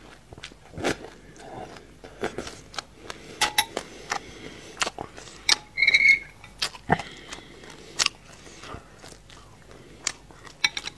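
Close-up eating sounds: chewing and crunching of black sesame seeds mixed with passion fruit, heard as irregular sharp clicks and crackles. About six seconds in, a metal spoon scrapes through the bowl with a brief high squeak.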